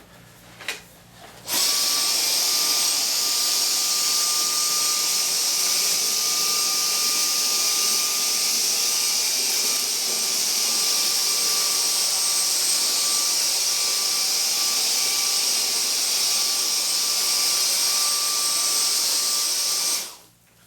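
Dyson DC35 Digital Slim cordless stick vacuum switched on about a second and a half in, running with a steady high whine as it vacuums sand from carpet. It cuts off suddenly near the end.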